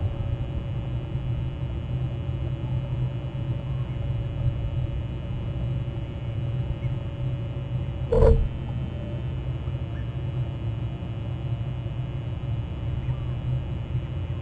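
Steady low rumble with a faint constant hum, and one short, sharp sound about eight seconds in.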